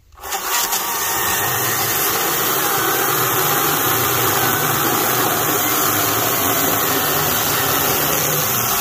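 Greenworks Commercial GS110 battery-powered top-handle chainsaw running at full speed, its chain cutting through a log. The sound is steady and does not let up.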